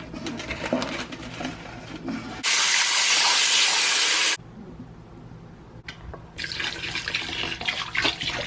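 Kitchen tap water running while raw chicken is washed in the sink. A loud, steady gush lasts about two seconds and cuts off abruptly, then comes quieter splashing and handling of the wet chicken, with water running again near the end.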